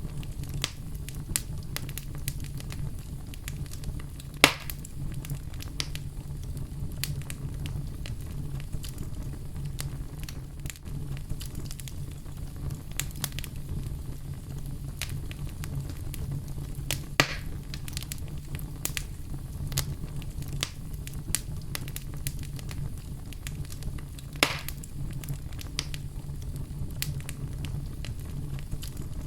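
Fire burning in a fireplace: dense small crackles over a steady low rumble, with three much louder sharp pops spread through.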